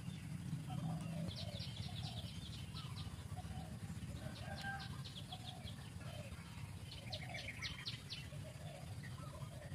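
Birds calling: three bursts of rapid, high trilled notes, over repeated lower clucking calls and a steady low background rumble.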